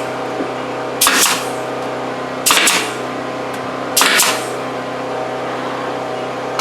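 Three short bursts of compressed air, about a second and a half apart, from an air tool run off a small pancake air compressor, over the steady drone of a generator.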